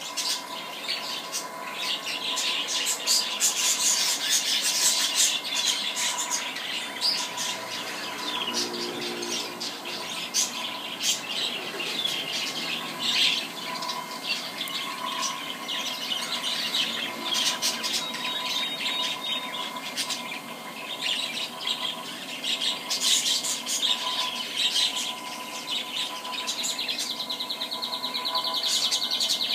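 Many small birds chirping and squawking continuously, with a fast trill near the end, over a steady hum.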